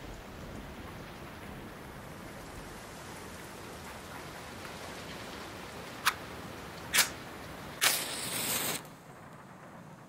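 A match being struck and lit: two sharp strikes about a second apart, then the head catching with a short flaring hiss, over a steady hiss that drops away once the match is lit.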